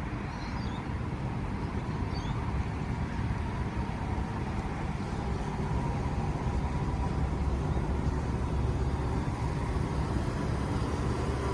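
A motor vehicle's engine running with a steady low rumble that slowly grows louder, with faint high chirps about half a second and two seconds in.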